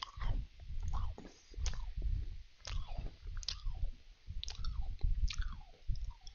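A person chewing Danish butter cookies with the mouth closed, close to a headset microphone: low chewing thumps with sharp mouth clicks every second or so.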